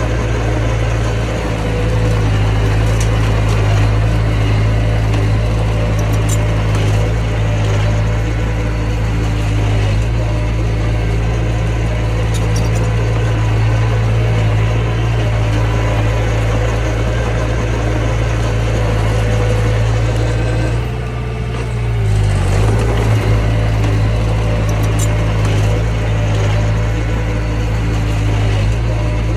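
Mini bulldozer's diesel engine running steadily, dropping in speed briefly about three-quarters of the way through and then picking back up.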